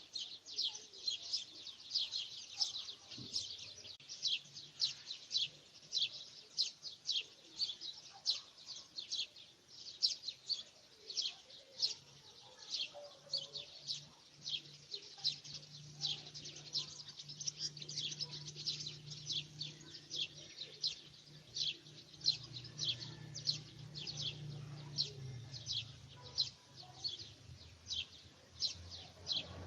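A bird chirping steadily, short high chirps repeated about twice a second. A faint low hum comes in about midway and fades out before the end.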